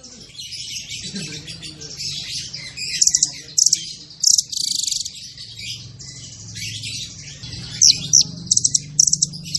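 A songbird singing a fast, tightly packed run of sharp chirps and trills, with hardly a gap between phrases, over a faint low hum.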